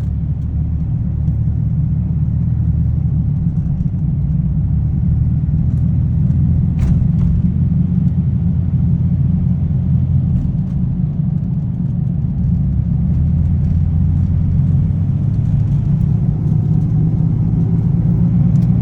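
Steady, loud low rumble of a motor vehicle engine with road traffic, a drone of several low tones that holds throughout.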